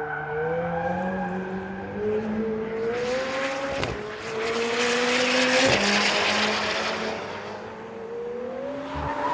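McLaren 720S twin-turbo V8 running under load, its note rising and falling, with brief breaks about four and six seconds in.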